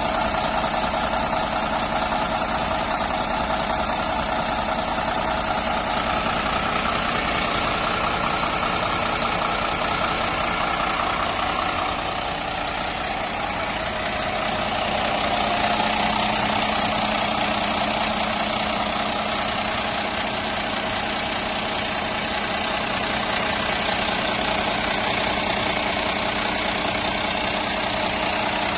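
Mercedes-Benz Citaro city bus engine idling steadily, its level dipping slightly about twelve seconds in and then picking up again.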